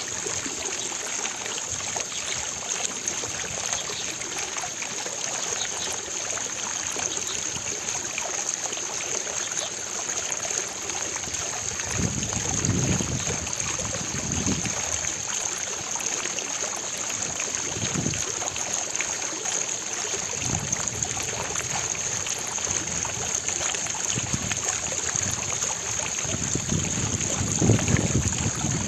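Water splashing steadily from an outdoor fountain, a continuous even rush, with several low rumbling swells in the second half.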